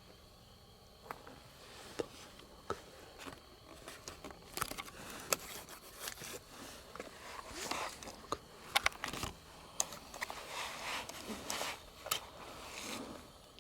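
Close rustling, scraping and crinkling inside a tent, in irregular clicks and crinkles that grow busier about four seconds in.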